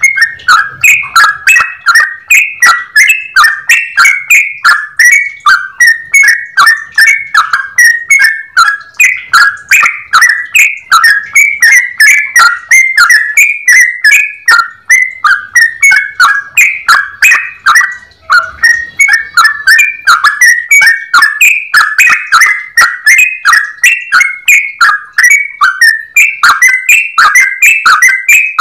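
Yellow-vented bulbul (trucukan) in full song: a long, unbroken run of rapid, whistled chattering phrases, with a brief pause about eighteen seconds in.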